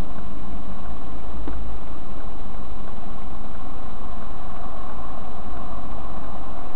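Steady engine and cabin noise of a stationary car, picked up by its dashcam microphone.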